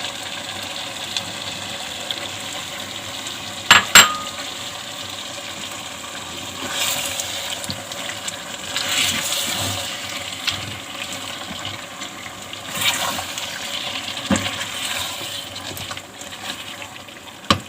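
Chicken frying in ghee in a karahi: a steady sizzling hiss that swells several times. About four seconds in come two sharp metal clinks of a utensil against the pan.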